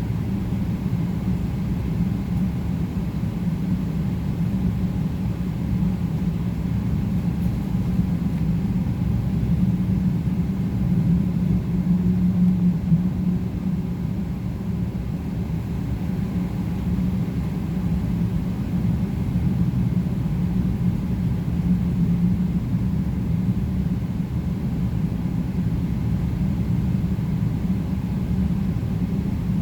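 Steady low cabin rumble of a Boeing 777-300ER taxiing with its GE90 engines at idle, heard from inside the cabin.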